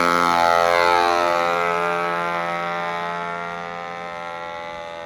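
Model airplane's 52cc two-stroke brush-cutter engine running at high revs as the plane flies past, its pitch shifting, then fading as it moves away from about a second in.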